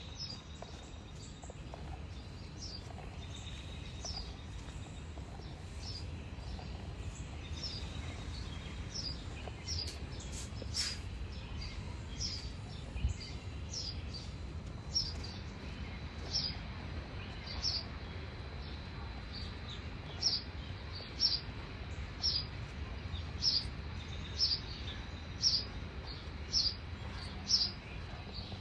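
A bird calling over and over with short, high chirps that slide downward, about one a second, becoming steadier and more regular in the second half, over a low steady rumble.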